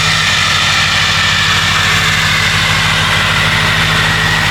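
Vehicle engine running steadily, a low hum with a fast, even pulse under a constant hiss.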